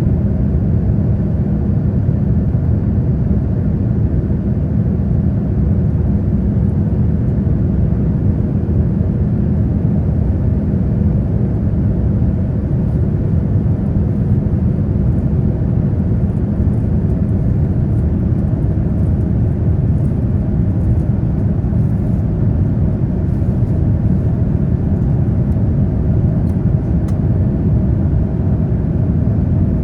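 Steady low rumble of a Boeing 787-9 Dreamliner's jet engines, holding an even level.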